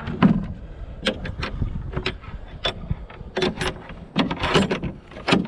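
Truck loaded with scrap metal driving, with a steady low road rumble and about a dozen irregular sharp clanks and rattles.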